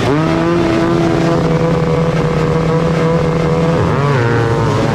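Motocross bike engine revved up sharply, then held at steady high revs, with a quick dip and rise in revs about four seconds in.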